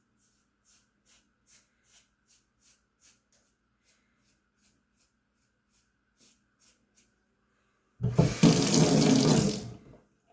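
Short scraping strokes of a razor shaving a lathered scalp, about three a second, then about eight seconds in a tap runs loudly into the sink for about two seconds.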